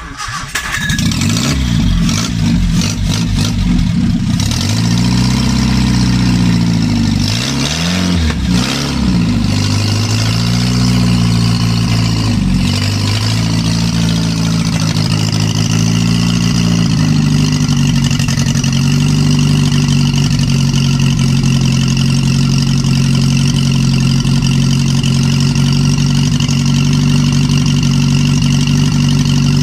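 Freshly rebuilt 948cc BMC A-series four-cylinder engine of a 1958 Morris Minor starting up. Its revs rise and fall unevenly for the first dozen seconds or so, then it settles into steady running.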